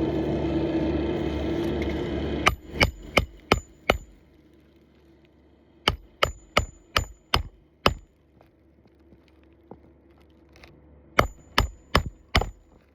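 A steady rushing noise for about two and a half seconds, then a hammer striking sharply in three runs of five, six and four blows, about three a second, as shingle nails are driven or the roof snake is tapped in on an asphalt shingle repair.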